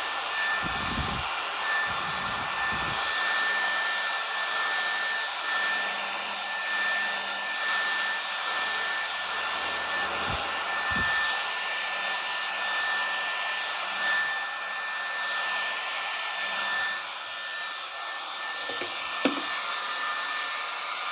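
Remington HC6550 cordless vacuum hair clipper running steadily, its motor and built-in suction fan giving a constant whine over a rushing hiss. At the very end it is switched off and winds down, falling in pitch.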